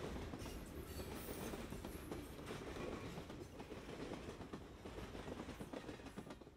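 Train rolling along the track: a steady rumble with rattling clicks from the wheels and cars, slowly fading.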